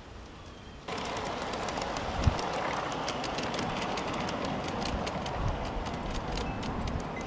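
Freight cars rolling past close to the track: a steady rumble with rapid clicking of wheels over rail joints. It starts abruptly about a second in, and there is one loud knock a little after two seconds.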